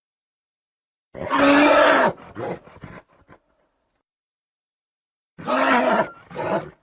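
A horse calling twice, two loud, low-pitched calls about four seconds apart. The first has a few shorter sounds trailing after it.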